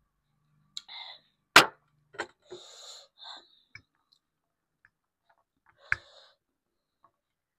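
Close-miked eating sounds of black bean noodles: short hissy slurps and mouth clicks, with one sharp knock, the loudest sound, about one and a half seconds in.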